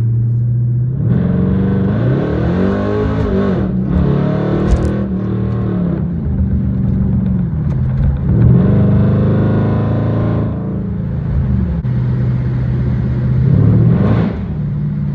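Car engine and exhaust under way, the revs climbing and falling in three surges as the car accelerates and shifts, between stretches of steady cruising hum.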